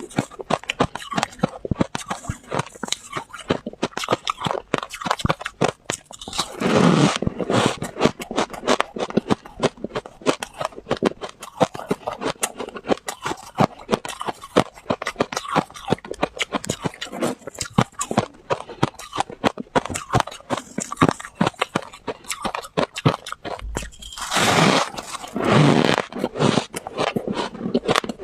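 Close-up crunching of freezer frost being chewed, a dense run of sharp crisp crackles, with a couple of louder, longer crunching passages along the way.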